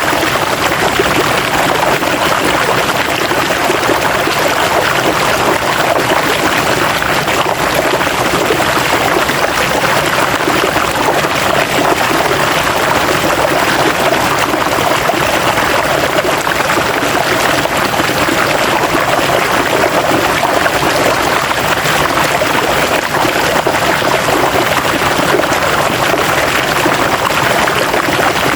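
River water flowing and splashing over rocks in a steady, unbroken rush.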